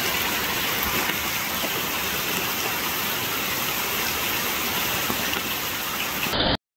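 Heavy rain falling into a muddy puddle: a steady hiss of drops splashing on standing water, which cuts off suddenly near the end.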